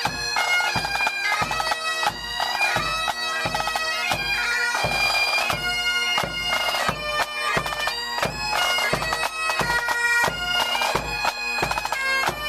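Bagpipes playing a tune over their steady drones, with a regular beat underneath.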